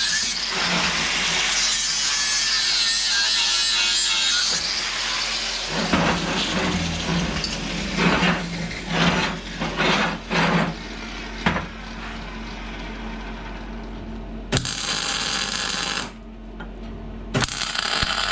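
Angle grinder grinding steel, running steadily for about five seconds, then cutting in and out in a series of short bursts. Two separate bursts of about a second each come near the end.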